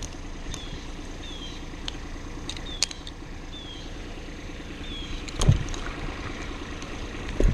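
Steady low engine hum with a faint noisy bed, broken by a series of short, falling high chirps and a few sharp clicks, with a louder knock about five and a half seconds in.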